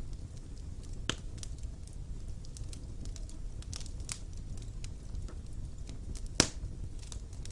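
Wood fire burning in a stone fireplace: a low steady rumble of the flames with scattered sharp crackles and pops, one loud pop about a second in and the loudest near the end.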